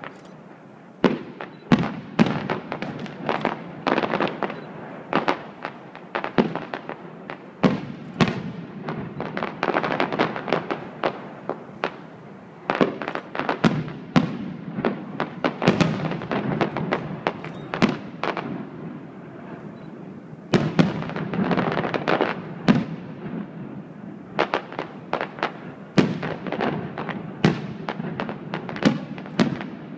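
Aerial fireworks display: shells bursting in quick, irregular succession, dozens of sharp bangs, each trailing off in a rolling echo. There is a short lull about two-thirds of the way through before the bursts pick up again.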